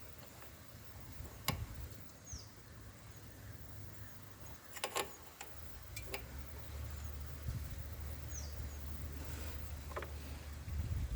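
Hero Splendor Plus BS6 single-cylinder engine idling as a faint steady low hum that grows stronger about halfway through, with a few sharp clicks. A bird chirps briefly twice.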